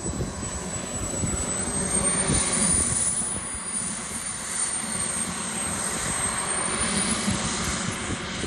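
Model jet turbine in flight, a high whine over a steady rush of engine noise; the whine climbs in pitch about two seconds in and drops back about six seconds in as the throttle changes.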